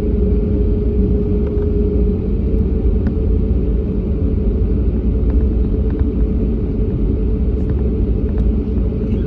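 Jet airliner engines running with a steady low rumble and a constant hum.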